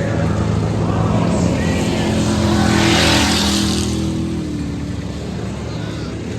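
Monster truck engine running hard, swelling to its loudest about three seconds in and then easing off.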